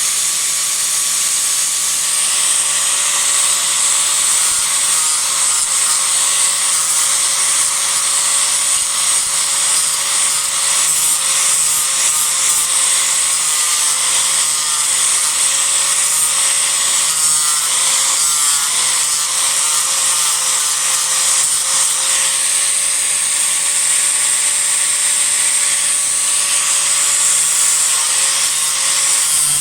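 Disc grinder running steadily with a constant whine, its disc grinding away cedar wood in rough shaping.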